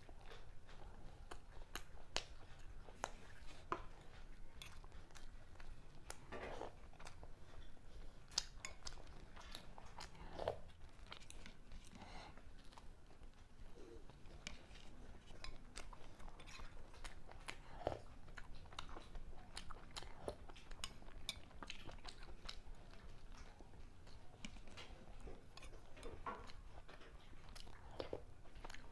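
A person chewing and biting into buttered toasted bread and chicken stew, with irregular soft crunches of the toast.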